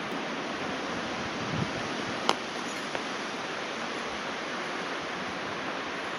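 Steady rushing of wind, with one sharp click a little over two seconds in and two fainter ones around it.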